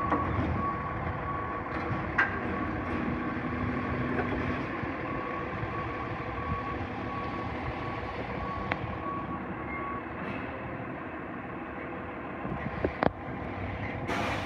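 Garbage truck's reversing alarm beeping at an even pace over its running engine, stopping about ten seconds in; a few sharp knocks are heard near the start and near the end.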